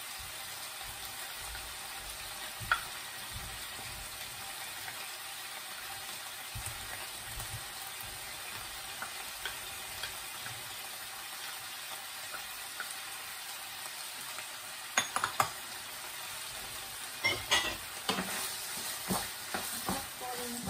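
Fish balls sizzling steadily in hot oil in a frying pan. From about fifteen seconds in, a wooden spatula scrapes and knocks against the pan as they are stirred.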